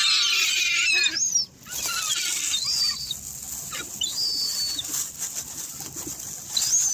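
Gulls and pigeons crowding for bread: a flurry of flapping wings with high gull calls in the first second and a half, then a few separate high, thin gull calls rising and falling in pitch.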